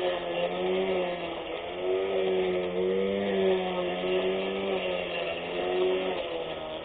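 24V brushless electric lawn mower motor running with a steady hum whose pitch wavers slightly up and down.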